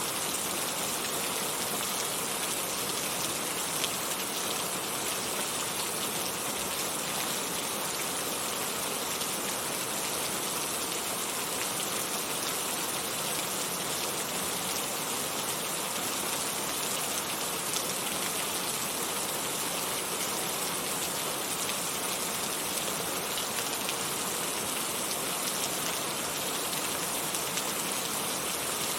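Heavy rain falling steadily, an even hiss of rain with scattered drops striking a surface.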